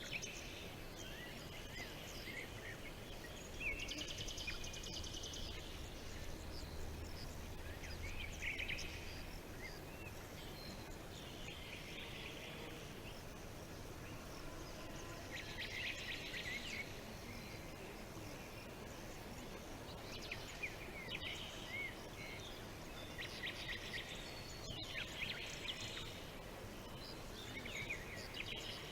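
Several small birds chirping and trilling over a steady outdoor background hiss, each song phrase lasting a second or two and coming every few seconds.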